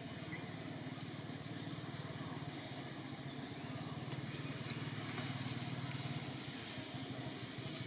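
A small engine running steadily with an even low pulsing hum.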